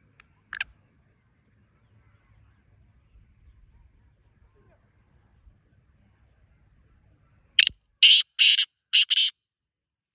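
Black francolin calling: one short sharp note about half a second in, then near the end a loud, quick run of about five harsh, grating notes.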